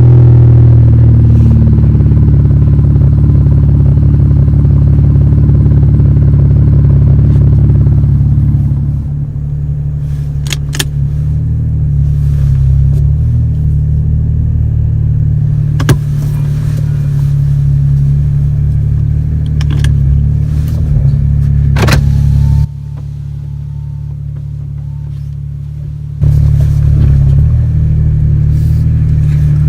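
BMW 335i's N54 twin-turbo straight-six running through a muffler-delete exhaust: a steady, loud, low exhaust drone. It gets quieter about nine seconds in, dips further for a few seconds near the end, and comes back, with a few sharp clicks in between.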